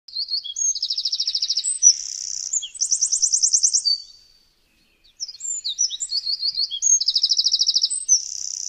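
Songbird singing high-pitched phrases of fast, evenly repeated trills mixed with short chirps and whistled slurs. The song comes in two long bouts with a short silence a little past four seconds in.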